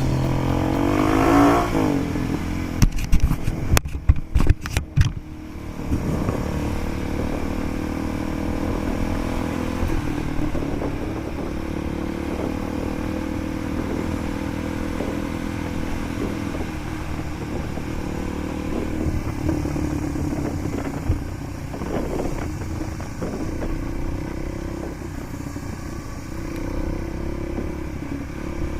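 Motorcycle engine revving up, then running steadily as it is ridden over rough trail, with a quick cluster of sharp knocks and clatter a few seconds in.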